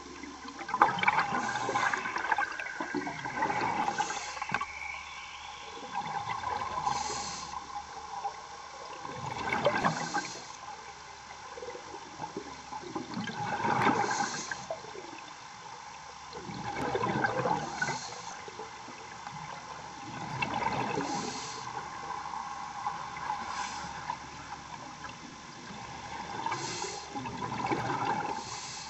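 Underwater sound of a scuba diver breathing through a regulator: a hiss of inhalation and a rush of gurgling exhaust bubbles, swelling and fading about every three to four seconds.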